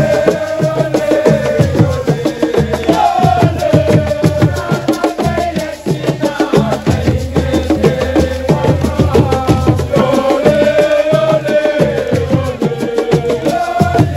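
Assiko music: fast, dense drumming with sharp wood-block-like clicks, and voices singing a melody over it.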